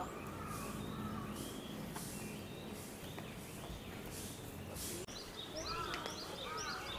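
Small birds chirping, with short repeated arched notes that grow busier over the last second or so, over a steady outdoor background hum.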